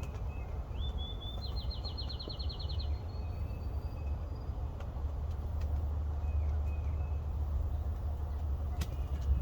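A songbird sings one short trill: a lead-in note, then about a dozen quick, even notes over roughly a second, with faint chirps from other birds scattered around it. Under it runs a steady low rumble, the loudest sound, slowly growing.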